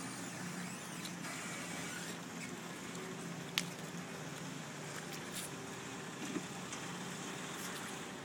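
Engine of a Mercedes-Benz M-Class SUV idling steadily with a low hum, with a sharp click about three and a half seconds in.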